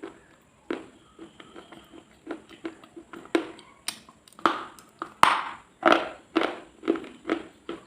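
Close-miked crunching, one sharp crunch after another at about two a second, the loudest a little past the middle.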